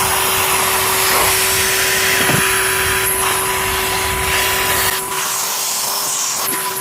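Numatic tub vacuum cleaner (Henry-type) running steadily, with a rushing sound of suction and a constant motor whine; about five seconds in the low rumble drops away while the whine carries on.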